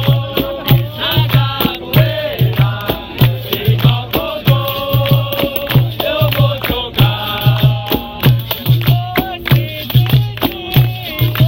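Capoeira roda music: singing over a steady, regular drum beat, with rattling percussion.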